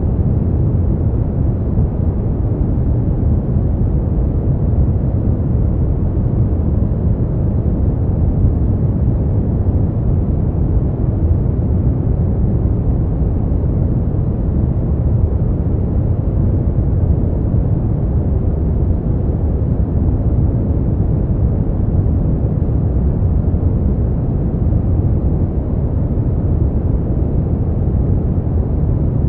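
Continuous white-noise sleep track: a steady, even, deep rushing noise with little high hiss, unchanging throughout.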